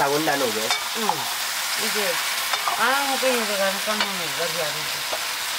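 Mushrooms, potatoes and greens sizzling in a hot iron wok, with a metal ladle stirring and knocking against the pan. A few short pitched sounds that slide up and down are heard over the sizzle.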